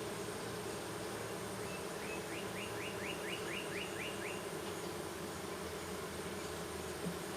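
Honeybees buzzing in a steady hum around an opened hive. About two seconds in, a short trill of about ten quick high chirps sounds over it.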